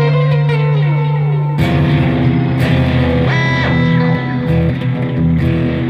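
Electric guitar, a Squier Classic Vibe '60s Stratocaster, played over a looped part. Held notes slide down in pitch, a new chord is struck about a second and a half in, and a lead note is bent up and released around the middle.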